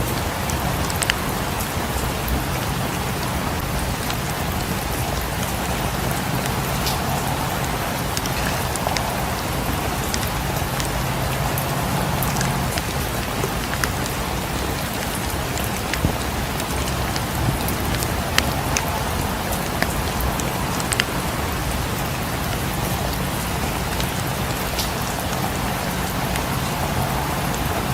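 Steady rain falling on a cabin, with scattered sharp crackles and pops from a wood fire in the fireplace.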